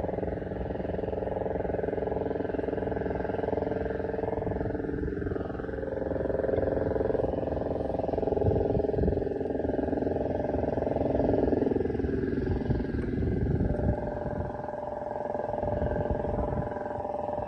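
An engine running with a steady drone, its pitch dipping and coming back up twice, about five seconds in and again about twelve seconds in.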